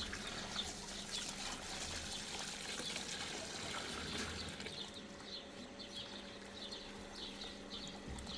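Water running and trickling, with scattered faint high chirps; the water sound eases off about five seconds in.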